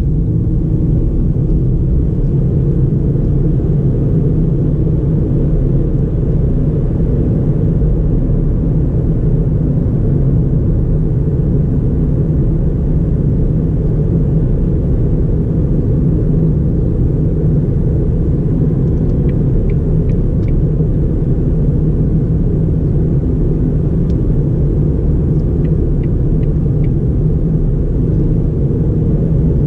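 2009 Ford Fiesta 1.4 with its 1.4-litre four-cylinder engine and automatic gearbox, cruising: a steady low rumble of engine and road noise.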